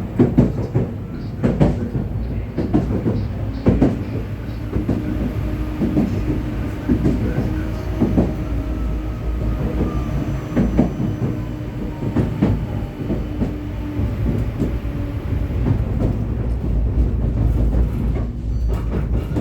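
Vityaz-M low-floor tram running along the track: a steady low rumble of wheels on rail with irregular knocks as it rolls over rail joints and track irregularities. A steady motor hum sits under it, with a faint whine that rises near the start and falls again around the middle.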